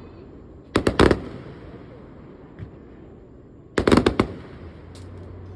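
Fireworks exploding: a quick cluster of three sharp bangs about a second in, then a faster run of four or five bangs around four seconds in, over a low background rumble.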